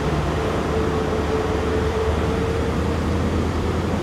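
The diesel power cars of a CrossCountry HST (Class 43) working as the train pulls out, a steady deep drone. A higher whine joins in shortly after the start and fades past the middle.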